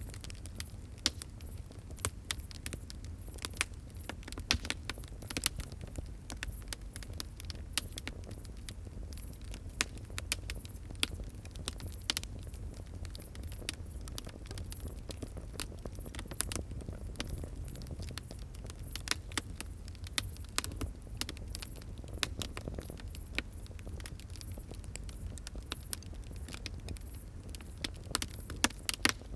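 Wood fire crackling: sharp irregular pops and snaps over a steady low rumble of burning.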